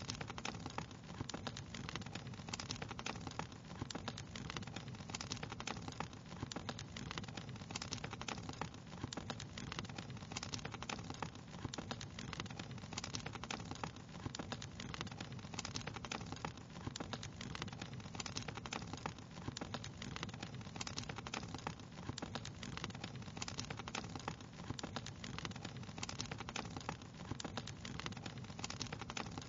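Wood fire crackling steadily: dense, irregular small pops and snaps over a low, even rumble.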